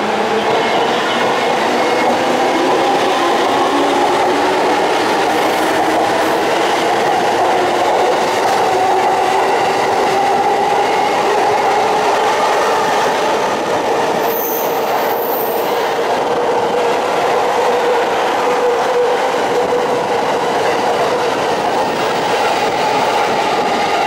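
Electric commuter train accelerating past a station platform: its motor whine rises steadily in pitch and then levels off, over the rumble of wheels on rail. About two-thirds of the way through there are a few clicks, as the wheels pass over rail joints or points.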